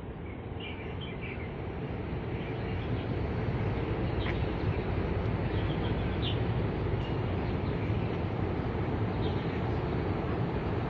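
Outdoor ambience: small birds chirping now and then over a steady low rumble that swells about three seconds in.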